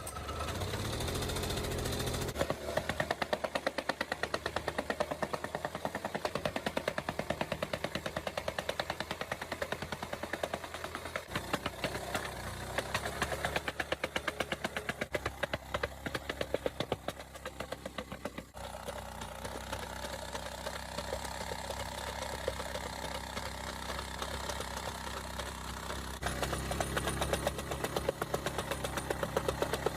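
Restored MEIWA earth compactor's small Robin engine running, with a rapid, even pounding. It slows and quietens about two-thirds of the way through, then picks up again near the end.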